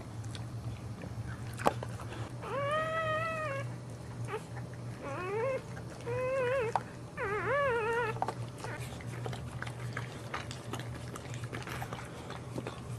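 A pet animal making four drawn-out, pitched calls in quick succession, the later ones wavering up and down in pitch, over a steady low hum, with a single sharp click just before the first call.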